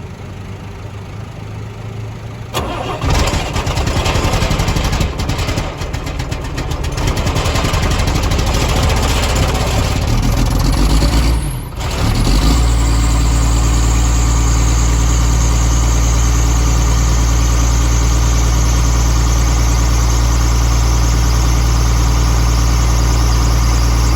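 Caterpillar 3116 inline-six diesel engine cold-starting after three days of deep freeze. It turns over and runs unevenly for about twelve seconds, dips briefly, then settles into a steady idle for the second half.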